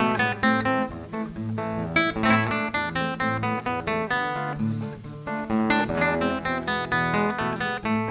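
Solo acoustic guitar playing a song's instrumental introduction in quickly picked notes, several a second.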